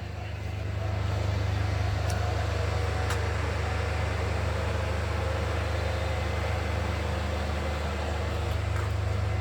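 Steady low mechanical hum, with the level swelling about half a second in and then holding even, and a few faint clicks.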